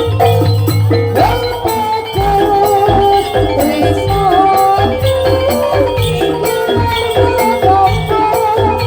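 Live Jaranan Dor music: a Javanese gamelan ensemble playing steadily, with struck metal percussion, low drum strokes and a wavering melody line over it.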